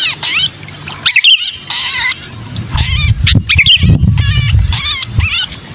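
Sooty-headed bulbul distress calls, the harsh cries of a trapped ('kejepit') bulbul: a rapid series of short, rasping notes repeated throughout. A low rumble sits underneath, strongest in the second half.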